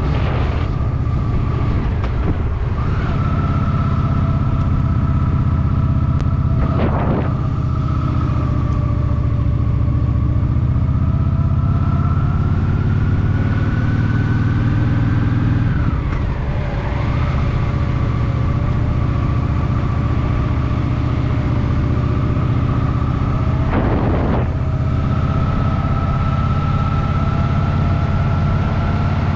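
Honda Shadow VT750's V-twin engine running while riding, with wind noise on the microphone. The engine note rises slowly, then dips briefly about halfway through as the throttle eases or a gear changes, and two short rushes of noise come through, about a quarter in and near the end.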